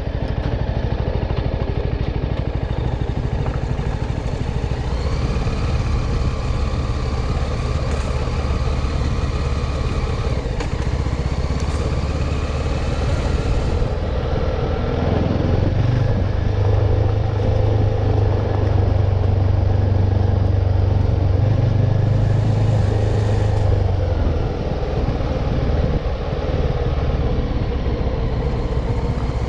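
CF Moto 250NK's single-cylinder engine running steadily under way, with its note shifting in pitch and a stronger low hum in the middle stretch as the throttle or gear changes.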